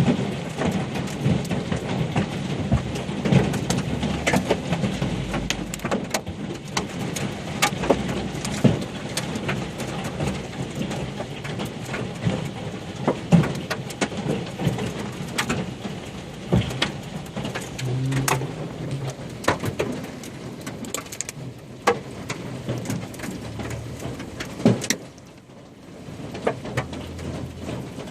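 Hailstorm with heavy rain: a steady wash of rain with many sharp cracks of hailstones striking hard surfaces. The impacts grow sparser near the end.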